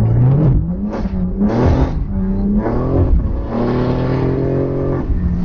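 Car engine accelerating hard from a near standstill, heard from inside the cabin. Its pitch climbs, falls back at each upshift and climbs again, settling to a steady drone near the end.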